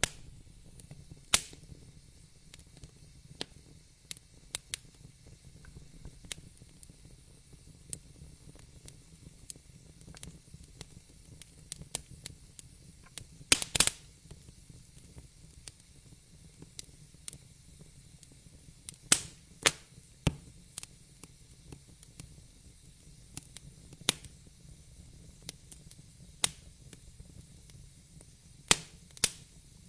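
Wood fire burning in a fireplace: irregular sharp crackles and pops over a low, steady rumble of flames, with a loud cluster of pops about halfway through.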